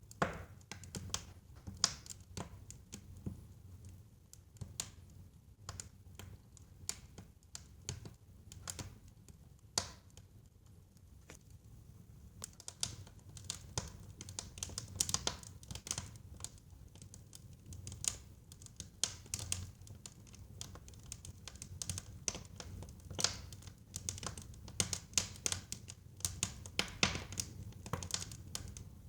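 Wood fire burning in a fireplace, with irregular crackles and pops over a low rumble, the crackling thicker in the second half.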